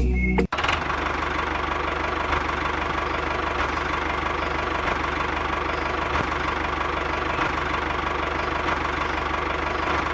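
A small electric motor running steadily with a fast, even rattling buzz, starting about half a second in.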